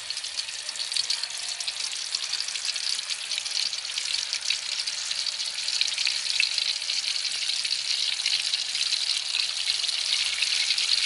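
Pieces of water snake frying in hot oil in a steel wok: a steady crackling sizzle of fine pops that grows a little louder toward the end.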